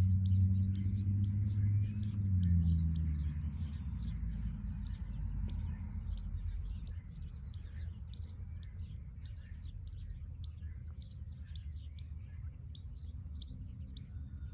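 A songbird repeating one short, sharp chirp about twice a second. Under it, the low hum of a passing car fades away over the first few seconds.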